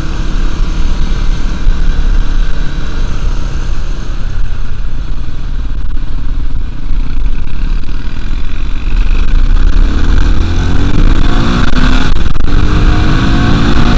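Dirt bike engine running under way, with heavy wind rumble on the microphone. About ten seconds in the engine revs up, rising in pitch, dips briefly a couple of seconds later, then climbs again.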